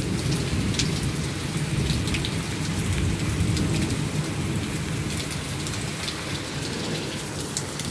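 Steady heavy rain, with individual drops ticking on nearby surfaces, over a low rumble that swells during the first few seconds and then eases off.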